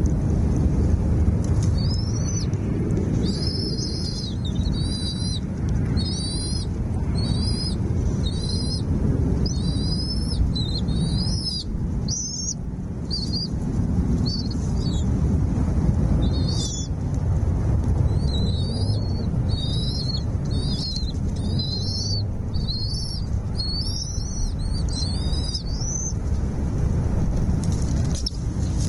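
Small birds chirping: a long run of short, high chirps, each sliding in pitch, repeated about once a second and thinning briefly near the middle. They sound over a louder, steady low rumble.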